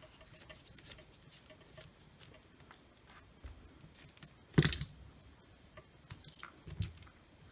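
Light clicks and taps of small tools and parts being handled on a workbench, with one sharp knock a little past halfway and a smaller one near the end.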